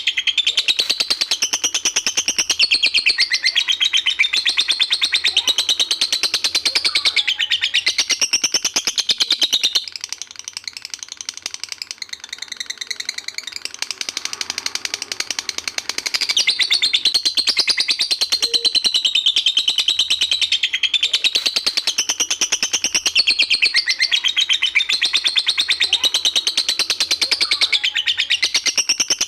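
Lovebird giving its long 'ngekek' song: a fast, unbroken chatter of high notes. It drops to a quieter stretch about ten seconds in and picks up again around sixteen seconds.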